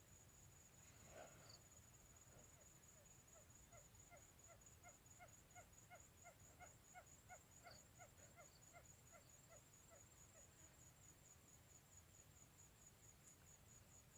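Faint quail calling: a series of short low notes about three a second, swelling and then fading over several seconds. Behind it runs an insect's steady, high pulsing trill.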